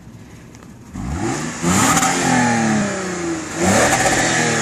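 2008 Lexus IS250's 2.5-litre V6 exhaust, revved twice while stationary. The first rev comes about a second in and the revs fall away slowly; a second, shorter blip follows near the end.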